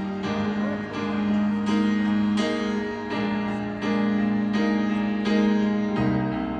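Live piano playing a slow, tender passage of sustained chords between sung lines of a ballad, a new chord struck about three times every two seconds.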